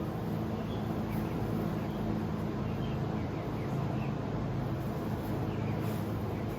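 A steady low hum, with faint short high chirps scattered through it.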